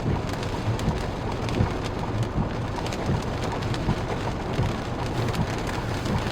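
Floodwater pouring over the road into the roadside ditch: a steady rushing and splashing full of small droplet clicks. The flow is scouring out the ditch.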